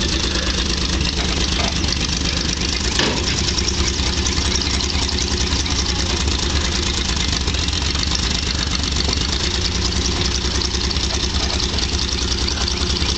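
1949 Chevrolet dump truck's straight-six engine idling steadily, with the choke about halfway out.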